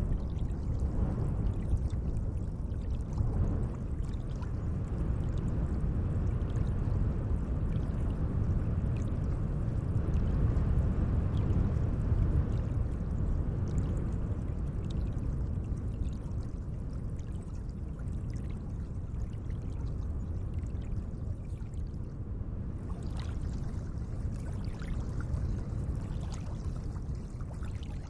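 Gently moving lake water: a steady wash of water noise that swells a little around the middle, with small light splashes and drips over it.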